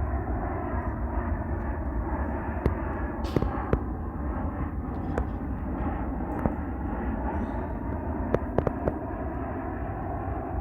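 Boeing 737-800 jet airliner on approach, a steady jet rumble, with scattered sharp clicks over it.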